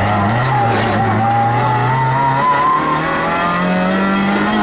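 Citroën Saxo VTS rally car's four-cylinder engine heard from inside the cabin, driven hard at speed, its pitch climbing steadily through the second half.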